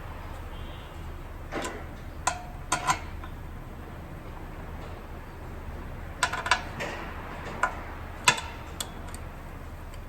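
Scattered metallic clinks and clacks of hand tools and engine parts being handled, a few ringing briefly, over a steady low hum.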